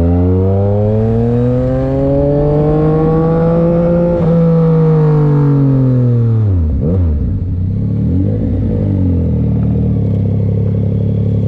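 Yamaha MT-09 SP's three-cylinder engine through an aftermarket SC-Project exhaust, pulling up slowly through the revs for about four seconds, then easing off. The pitch then drops sharply, with a couple of quick rev changes, and settles into steady running at lower revs near the end.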